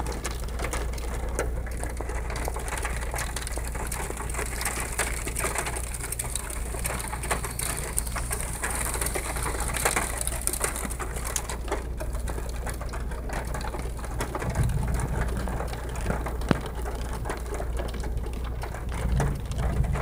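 Rain pattering on a car's roof and windshield, heard from inside the car, as a dense, uneven patter over a steady low hum. Brief low rumbles swell up about two-thirds of the way in and again near the end.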